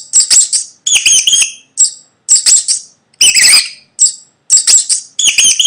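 Mouse squeaking: a string of about nine short, high-pitched squeaky bursts.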